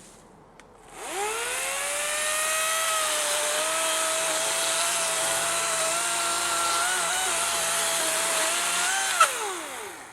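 Battery-electric chainsaw revving up from rest about a second in, then running at a steady high whine for several seconds. There is a sharp snap near the end, and then the motor winds down with falling pitch.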